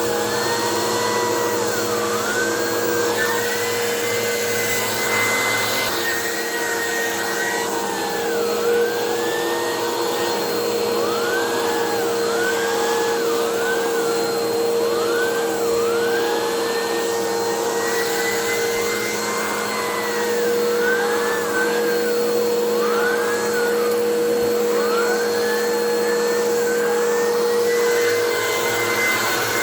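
Vacuum cleaner running with a turbobrush attachment on chair upholstery: a steady motor hum under a higher whine that keeps dipping and recovering in pitch as the brush is worked back and forth.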